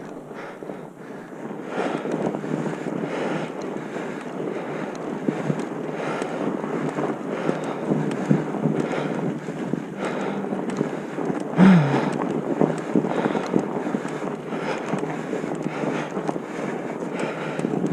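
Wind buffeting the microphone: a steady, uneven rushing noise, with a brief low sound dropping in pitch about twelve seconds in.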